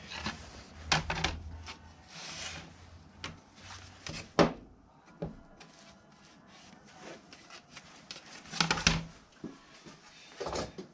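Scattered knocks, clicks and rubbing as objects are handled and set down, with one sharp knock about four seconds in and a busier clatter near the end.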